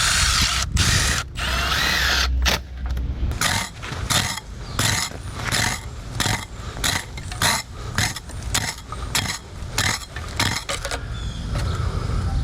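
Rapid, regular mechanical clicking or striking at about three to four strokes a second, starting about three seconds in and stopping near the end, over a steady low engine hum.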